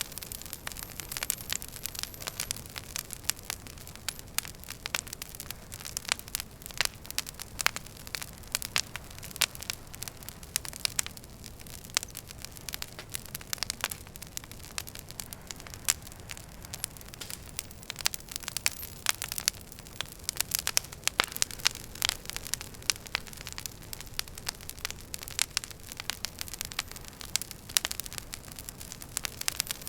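Wood fire crackling in a fireplace: frequent, irregular sharp snaps and pops from the burning logs over a steady low rumble of the flames.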